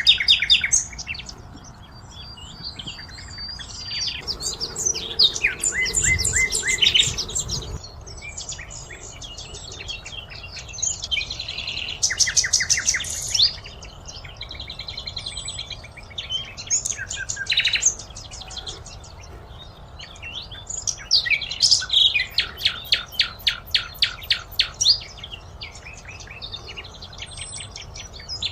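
Several songbirds singing at once: overlapping chirps and whistles with fast, evenly repeated trills, the longest near the end. A low rumble sits underneath for a few seconds early on.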